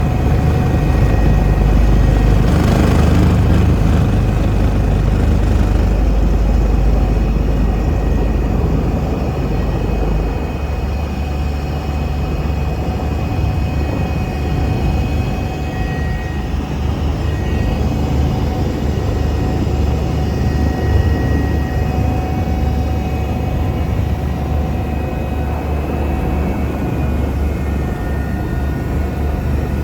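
Eurocopter EC145 twin-turbine helicopter running, with a steady deep rotor and engine drone and faint steady higher whines on top. The deep rumble shifts about ten seconds in.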